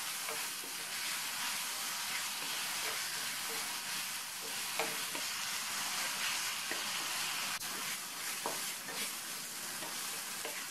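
Grated raw mango frying in oil in a stainless steel pan and stirred with a wooden spatula: a steady sizzle with a few light scrapes and knocks of the spatula against the pan.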